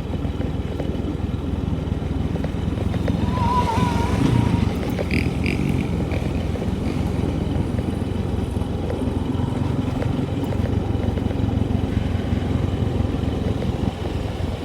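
An engine running steadily. A brief warbling tone rides over it about three and a half seconds in.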